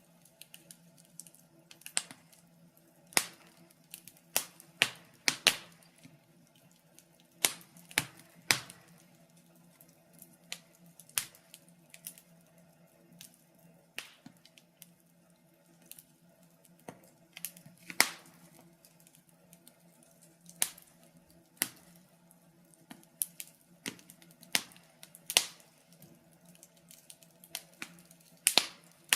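Wood fire crackling in a fireplace: irregular sharp pops and snaps, a few every couple of seconds, some much louder than others, over a faint steady hum.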